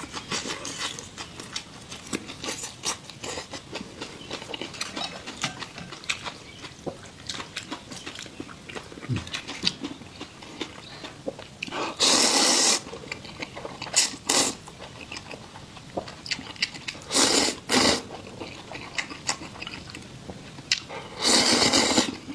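Close-up eating sounds: steady chewing with small crunchy clicks, broken by three louder noisy bursts of about a second each around the middle and near the end.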